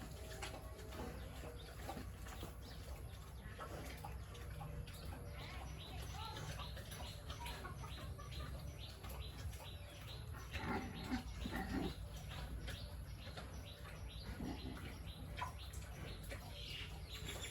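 Farmyard birds chirping and clucking, with a louder run of calls about ten seconds in, over a steady low hum.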